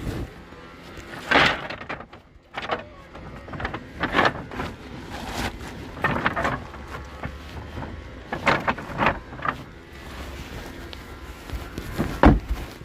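Irregular knocks and scrapes, short and spaced a second or two apart, with a louder knock near the end.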